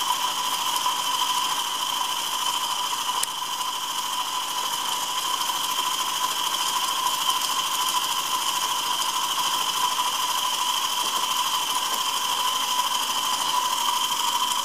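Perseus model steam engine running steadily on steam from a Stuart 501 boiler, with an even, unchanging whir. The engine is brand new and still being broken in.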